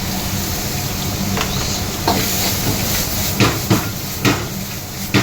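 Hot oil sizzling steadily as chicken fries in a pan, with several sharp clinks of a utensil against the pan.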